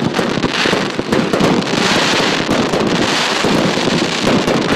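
A batch of substandard consumer firework cakes going off together: a dense, continuous stream of cracks and pops over a steady hiss, swelling several times.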